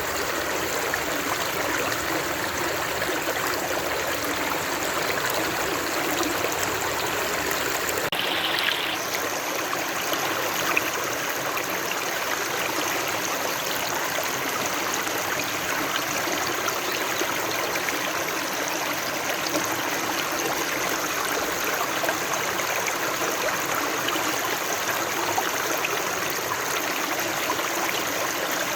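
Stream water flowing steadily, with a brief higher hiss about eight seconds in.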